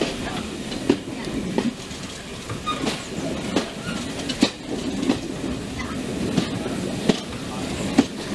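Railway carriage running along the line: a steady rumble with sharp clicks of the wheels over rail joints every second or so.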